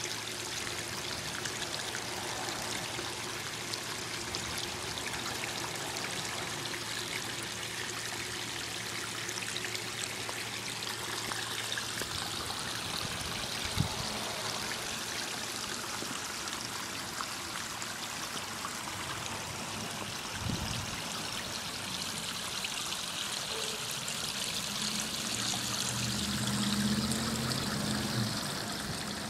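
Backyard pondless waterfall: water splashing and trickling steadily over rocks. A single sharp click comes about 14 seconds in, a thud about 20 seconds in, and a low hum swells under the water near the end.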